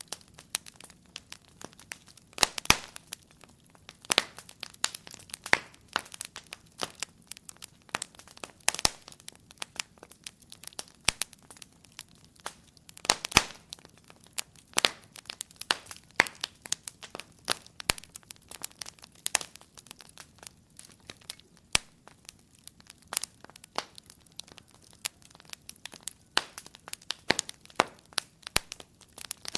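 Wood fire crackling: a steady stream of small irregular pops and snaps, several a second, with louder sharp cracks every few seconds.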